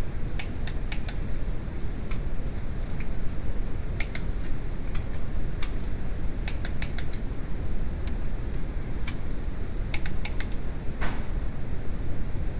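Sharp short clicks in small clusters of three or four, a few seconds apart, with single clicks between, over a steady low rumble.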